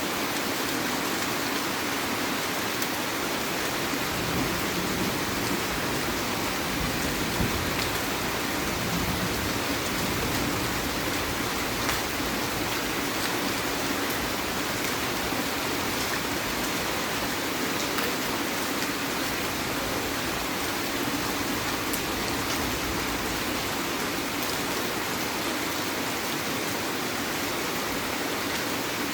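Heavy rain falling steadily, with scattered individual drop ticks.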